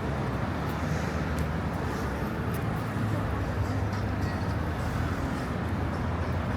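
City street traffic: a steady low engine rumble from passing and idling vehicles, with faint voices of passers-by.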